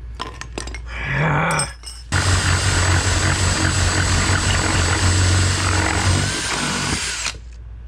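A power tool runs steadily for about five seconds with a low hum, starting about two seconds in and cutting off near the end.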